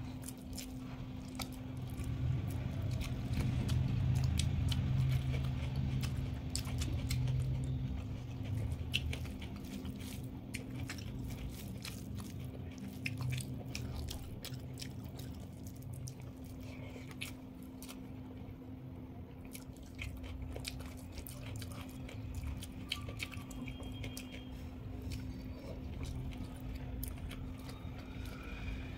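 A person chewing and eating, with many small crisp mouth clicks, over a steady low hum. A low rumble swells a couple of seconds in and fades after several seconds.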